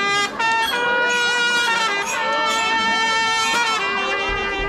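Marching band brass section playing a few long held notes, the longest held for about three seconds before the chord changes near the end.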